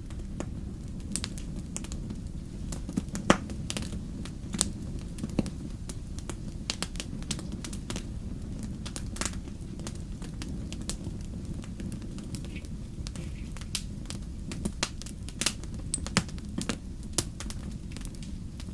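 Wood fire crackling in a fireplace: irregular sharp pops and snaps over a steady low rumble of the flames, one pop standing out a little over three seconds in.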